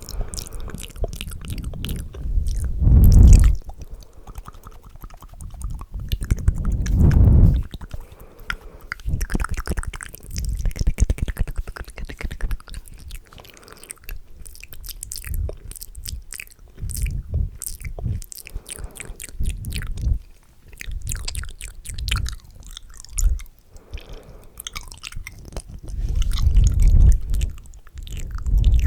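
Loud, close-miked ASMR mouth sounds: a fast, dense stream of wet clicks, smacks and lip pops, with low, heavy swells every few seconds.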